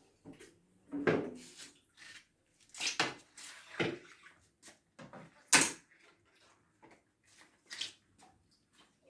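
A series of separate knocks and clatters of things being handled and set down in a kitchen, the loudest about five and a half seconds in.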